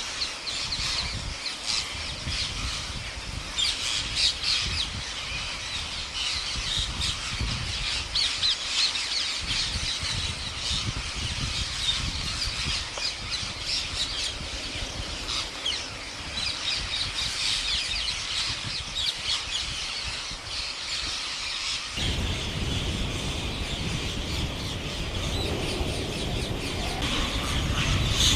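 A flock of parrots squawking and screeching, many overlapping calls at once, over a low rumble that grows heavier about two-thirds of the way through.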